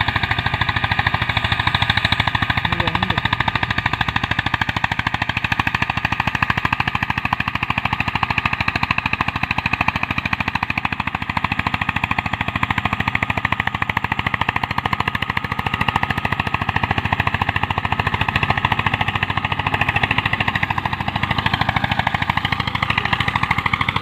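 Eicher 241 tractor's single-cylinder diesel engine running steadily while pulling a harrow, a fast, even thudding of firing pulses.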